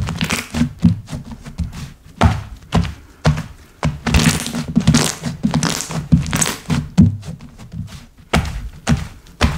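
Slime being worked by hand, pressed and stretched, giving a run of irregular clicks, pops and soft thunks.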